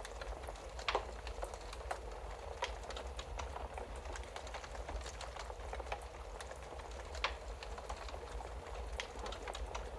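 Wood fire crackling in a fireplace: irregular snaps and pops over a steady hiss and low rumble, with two louder pops, one about a second in and one a little past seven seconds.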